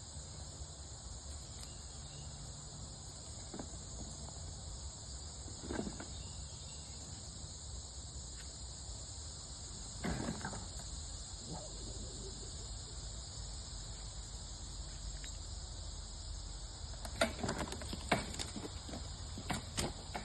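Steady high-pitched chorus of insects, with a few sharp clicks or snaps scattered through, the loudest of them a cluster near the end.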